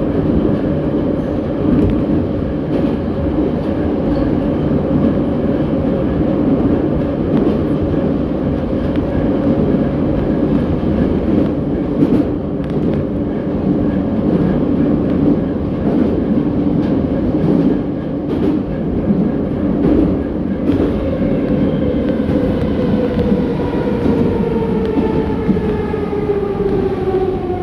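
81-717.6 metro train heard from inside the car, running at speed: a steady loud rumble of wheels and running gear with a few sharp clacks. In the last quarter, a whine from the traction motors falls steadily in pitch as the train slows for the next station.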